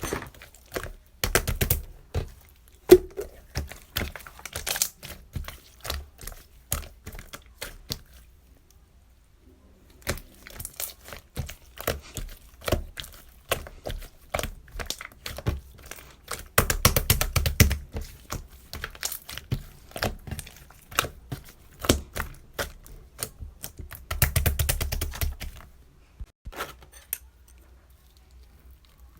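Close, irregular clicking and crinkling, like something being handled, crumpled or torn, with two denser flurries in the second half and a short lull before them.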